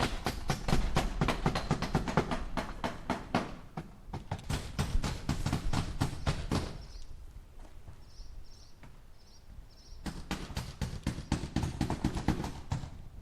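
Hammer striking nails into wood in quick runs of blows, about five a second, with a pause of a few seconds in the middle. Faint high chirps sound during the pause.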